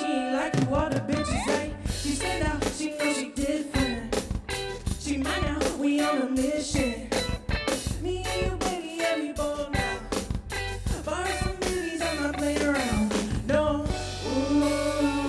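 Live band music: a drum kit keeping a busy beat over a steady bass, with a gliding melodic lead line on top.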